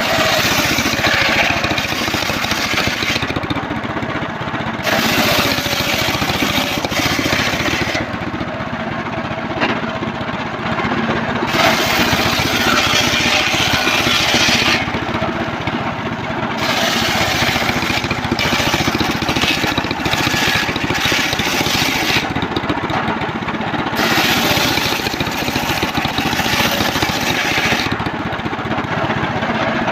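Engine-driven homemade circular sawmill running steadily, its blade cutting through trembesi timber in repeated passes: about five stretches of loud high cutting noise a few seconds long, with short gaps between them where only the engine and the spinning blade are heard.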